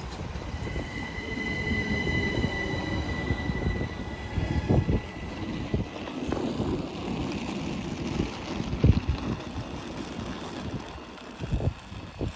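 A train moving through the station: steel wheels squeal on the rails with a steady high tone for the first few seconds, over a low rumble, with a few separate knocks later on.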